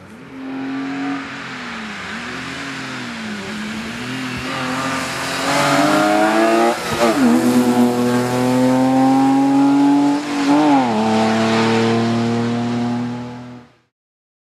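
BMW E30 rally car engine at full stage pace, revs rising and falling in the first few seconds, then pulling hard and louder, with two sharp drops and climbs in pitch at gear changes. The sound cuts off abruptly near the end.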